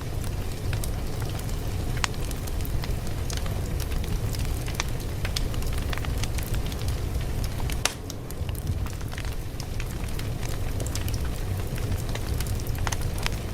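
A fire crackling, with irregular sharp pops and snaps over a steady low rumble.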